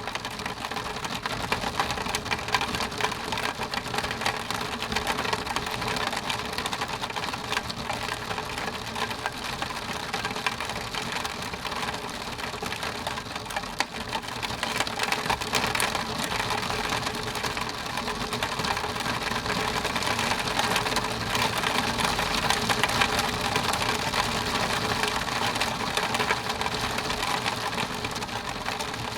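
Rain pattering steadily on window glass, a dense run of tiny drop ticks over a constant hiss, growing a little heavier in the second half.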